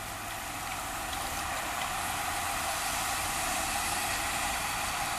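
Steady hiss of tyres rolling on a paved road with a low rumble underneath, building a little over the first couple of seconds and then holding.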